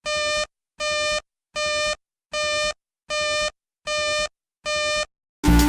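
Seven identical electronic alert beeps, a buzzy tone about half a second long repeating roughly every three-quarters of a second, typical of a WeatherStar emulator sounding a flash flood warning. Electronic music starts near the end.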